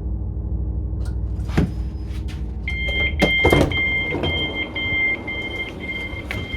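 Class 377 Electrostar train's door warning beeping, a repeated two-pitch beep about twice a second, starting about three seconds in as the doors are released at a station stop. Before it, the train's running rumble fades as it comes to rest, and a few sharp clunks come from the doors around the time the beeping starts.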